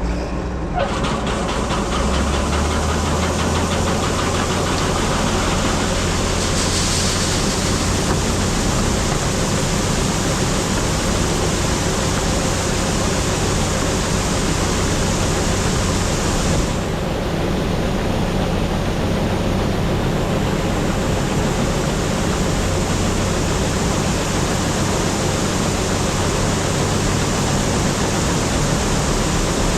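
Combine running steadily: a low engine drone under a loud, even rushing hiss, picking up about a second in.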